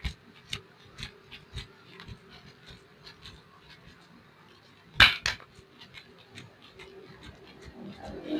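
Hands slapping and patting skin during a foot and leg massage: light pats about two a second, then two sharp slaps close together about five seconds in.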